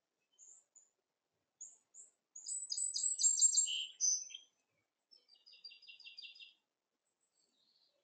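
A small songbird singing. A few faint high chips are followed by a loud song of rapid repeated notes about two seconds in, ending in a couple of lower notes. About a second later comes a quieter, rapid trill.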